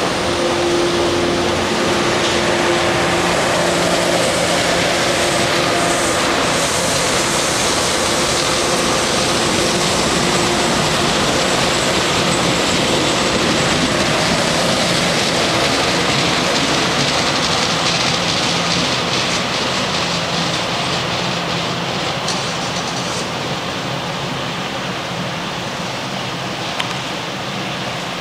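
MBTA commuter train's bilevel coaches rolling past on the rails, a steady rumble and hiss of wheels on track that slowly fades as the train moves away.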